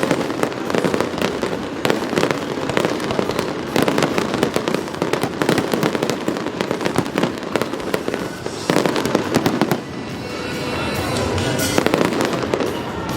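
Fireworks display: a dense, rapid barrage of bangs and crackles; about ten seconds in the bangs thin out and music with held notes comes up.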